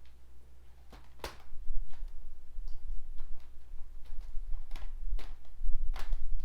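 Scattered sharp clicks and knocks of plastic Shark Lift-Away vacuum parts being handled and fitted together, the loudest about a second in and again near the end. Under them runs a steady low electrical hum from the headphones and microphone setup.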